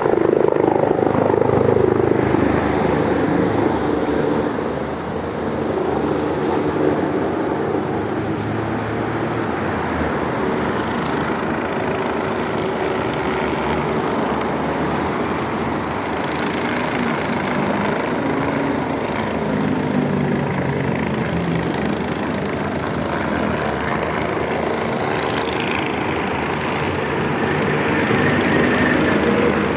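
Air ambulance helicopter running steadily, a continuous rotor and engine noise.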